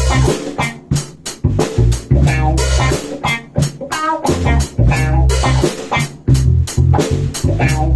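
Drum kit played along to a song with guitar and bass, as in a drum cover: a steady rock beat of bass-drum and snare hits with cymbals over it.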